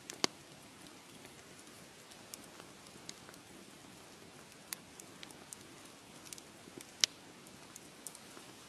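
Wood fire crackling in a fireplace: a steady soft hiss with scattered sharp pops and snaps, the two loudest just after the start and about seven seconds in.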